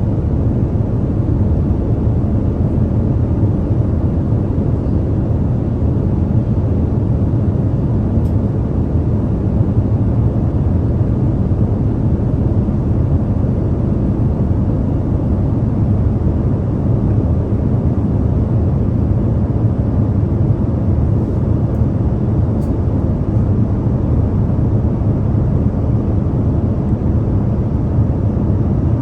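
Steady low drone of an airliner cabin in cruise: engine and airflow noise, a deep even rumble that holds level.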